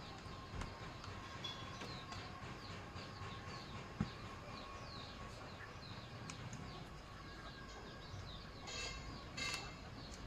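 Birds chirping in a long run of short, high, falling notes over a faint steady whine, with one sharp click about four seconds in.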